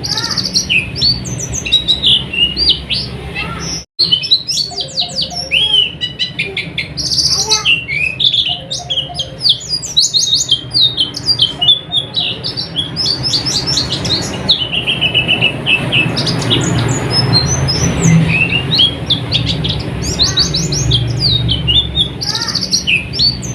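Pleci (white-eye) songbirds singing: a continuous stream of rapid, high twittering chirps and short trills, with a brief cut to silence about four seconds in.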